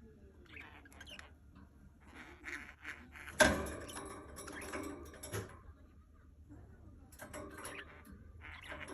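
Pet budgerigar chattering in bursts of quick high chirps and warbles, with one sharp knock about three and a half seconds in, the loudest sound.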